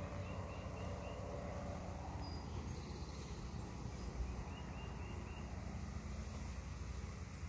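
Outdoor ambience: a steady low rumble under a small bird chirping. The bird gives two quick runs of about five short notes, one at the start and one about halfway through, with a few thin, higher chirps between.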